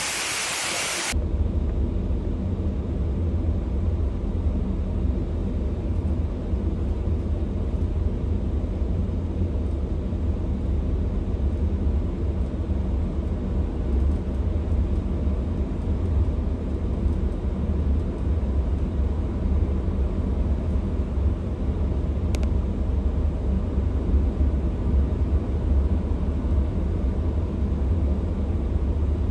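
Floodwater gushing into a rail tunnel for about a second, cutting off abruptly. After it comes a steady, deep rumble, as heard from a train or track vehicle moving slowly along the flooded tunnel.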